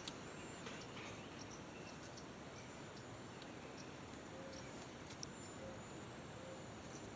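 Outdoor ambience: a steady background hiss with faint, scattered short high chirps and a few brief thin whistles. No loud peacock call.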